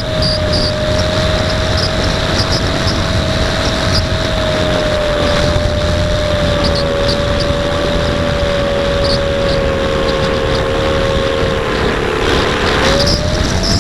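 E-flite Apprentice S 15e RC trainer's electric motor and propeller whining at a steady pitch. The pitch sags slightly, dips about twelve seconds in, then rises again near the end. Heavy wind noise rushes over the microphone.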